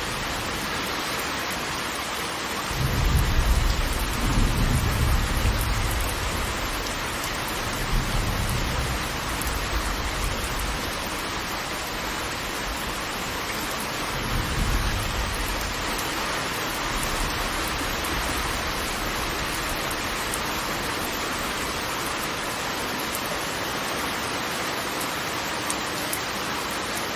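Steady rush of heavy falling water, with deep low rumbles swelling about three seconds in, again near eight seconds and around fourteen seconds.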